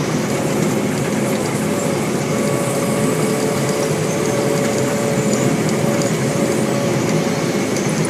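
Sugar cane harvesting machinery, a Cameco 3510 cane harvester working with a John Deere 6170R tractor and haul-out bin, running steadily under load. It makes a constant loud mechanical noise with a held whine above it.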